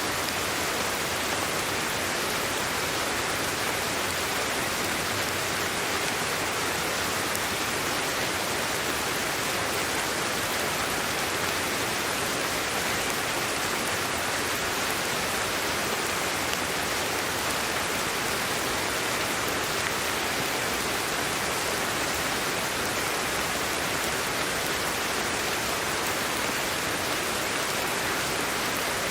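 Steady white-noise hiss for sleep, an even, unbroken rush that never changes in level.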